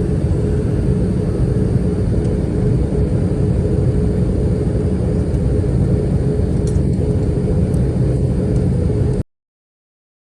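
Steady low rumble of a moving vehicle, heard from inside, with a thin steady hum above it. It cuts off abruptly about nine seconds in.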